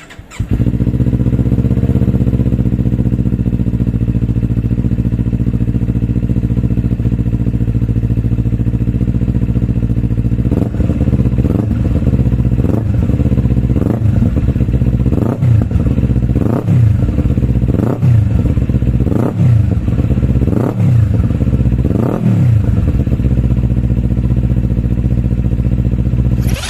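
Kawasaki Ninja 400 parallel-twin with an Akrapovic exhaust, idling steadily, then blipped through a series of quick revs about a second and a half apart from about ten seconds in, settling back to idle near the end.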